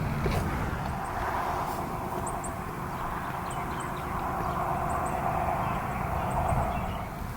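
Outdoor field ambience: a steady low rumble with a broader hiss that swells and fades, and faint short high chirps from small birds, several coming in pairs.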